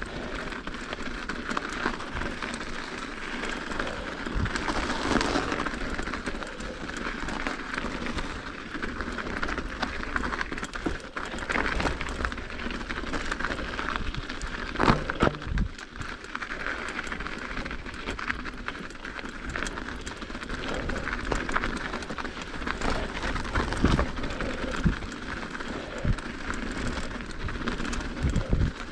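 Mountain bike rolling over an icy trail: steady tyre noise with scattered clicks and knocks from the bike, and a sharper clatter about fifteen seconds in.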